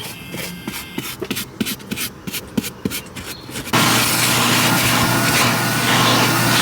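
Toothbrush scrubbing a small part of the car's interior in quick, uneven strokes, several a second. Near the middle it cuts off sharply to a loud, steady rushing noise with a low hum.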